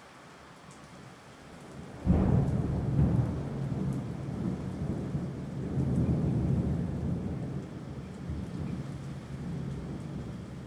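Steady rain, then a loud thunderclap about two seconds in that rolls on as a low rumble, swelling again a few seconds later before slowly dying away.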